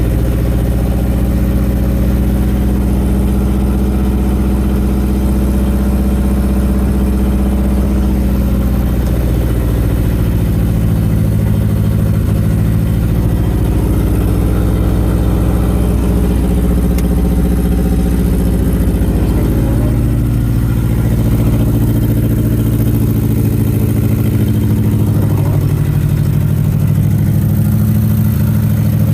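1987 Nissan 200SX S12 Silvia's engine running loud and steady, its pitch shifting up and down a few times as the revs change.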